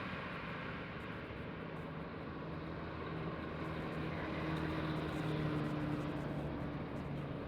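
Road traffic: a motor vehicle's engine running with tyre and road noise, swelling to its loudest about five seconds in and easing off near the end.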